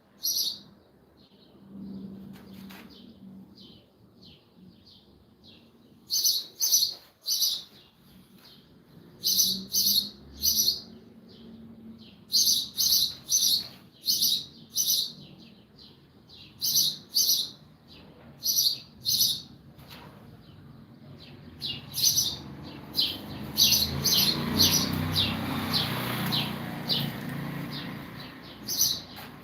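A bird chirping loudly and repeatedly, short high chirps in quick groups of two to four. A swell of broader noise rises underneath about three quarters of the way through.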